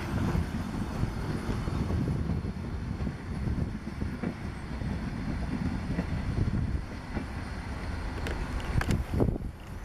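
Passenger coaches of a steam-hauled train rolling past on the rails: a steady low rumble of wheels on track that eases as the train pulls away, with a few short clicks near the end.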